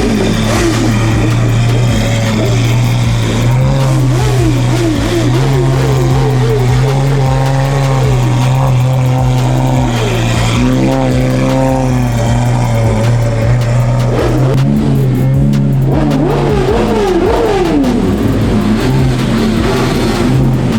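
Car engines running and revving over and over, their pitch rising and falling several times over a steady low drone.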